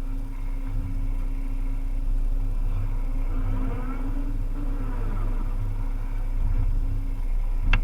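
Volvo EC300E excavator's diesel engine running steadily under work, with a hydraulic whine rising and falling in pitch midway through. A single sharp click comes near the end.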